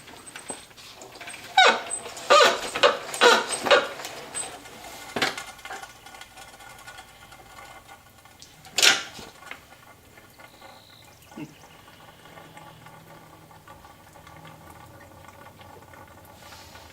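A quick run of about seven sharp knocks a couple of seconds in, then two more single knocks a few seconds apart; no engine runs.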